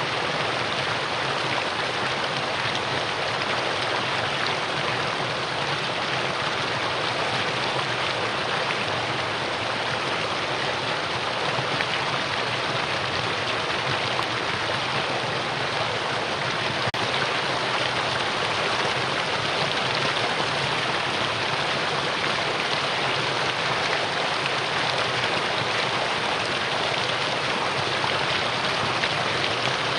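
Mountain stream rushing over rocks in a steady, even wash of running water.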